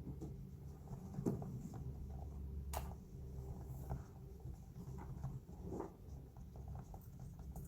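Typing on a silicone roll-up keyboard: soft, muffled, irregular key taps over a low steady hum.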